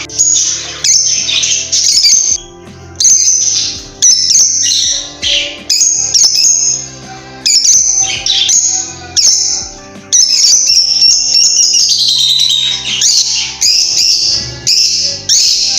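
Lovebirds calling in loud, high-pitched chirps and squawks, in quick runs broken by short pauses, over steady background music.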